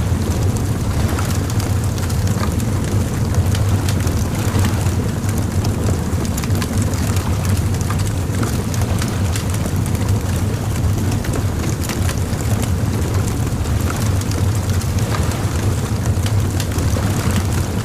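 Bonfire crackling, with many small sharp pops and snaps over a steady low rumble.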